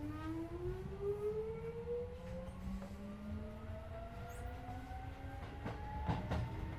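Keisei 3400 series electric train pulling away, heard from inside the car: the motor and gear whine climbs steadily in pitch, several tones rising together over a low rumble. A few rail-joint clicks come in near the end.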